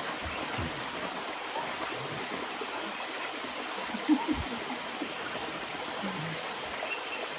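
Steady rushing water noise, as from heavy rain or a running stream, with a short faint pitched sound about four seconds in.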